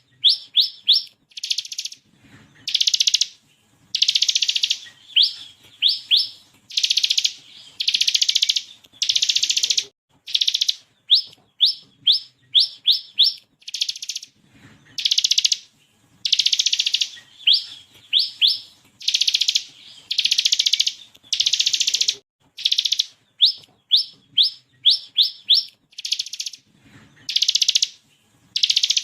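Ciblek (bar-winged prinia) singing: quick rising whistled notes in runs of three to five, alternating with harsh buzzing rattles half a second to a second long, over and over.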